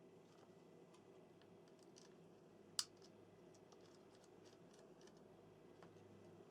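Near silence with faint, scattered clicks of small plastic N gauge model train parts being handled and fitted together, and one sharper click nearly three seconds in.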